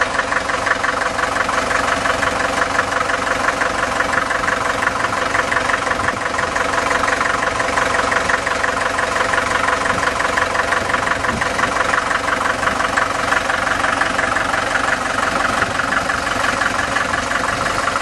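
1954 Farmall Super MTA's four-cylinder diesel engine idling steadily, with an even, rapid diesel knock.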